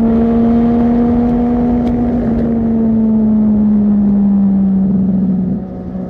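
A superbike engine running at a high, steady pitch through a loud aftermarket exhaust. The pitch sags slightly, then the sound drops in level near the end.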